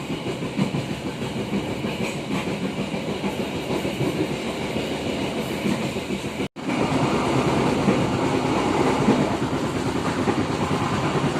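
A train running along the track, its wheels clattering over the rail joints with a steady rumble. The sound drops out for an instant about six and a half seconds in, then comes back louder.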